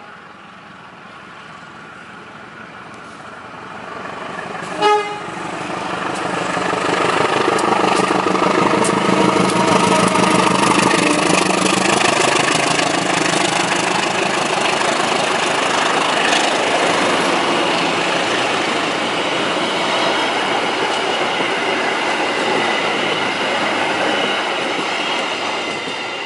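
Diesel locomotive gives a short horn toot about five seconds in, then passes close with its engine running, the engine note dropping as it goes by. Its passenger carriages follow with steady wheel-on-rail rumble and clatter.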